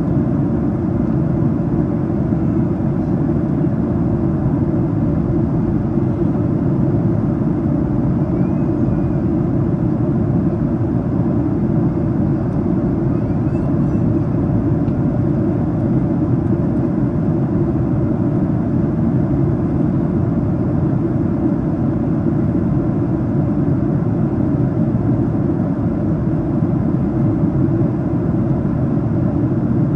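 Steady cabin noise of a Boeing 737-800 in cruise flight: a continuous low drone of airflow and engines with no change in level.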